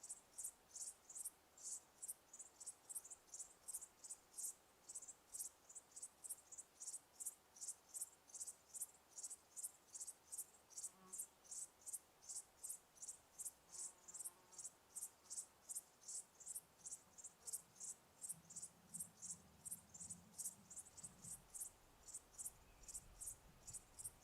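A cricket chirping steadily, a high short chirp repeated about three times a second.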